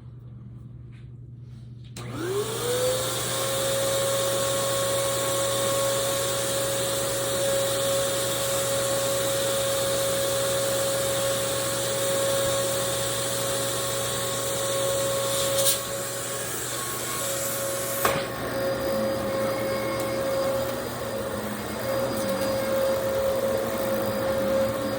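Vacuum cleaner switched on about two seconds in: its motor whine rises quickly to a steady pitch over a strong rush of air. Two sharp knocks come later, and after the second one the airy hiss is lighter while the motor keeps running.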